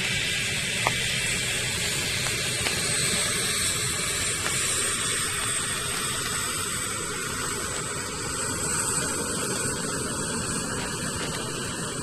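Gas-turbine engine running steadily: a high whine over a broad rushing hiss.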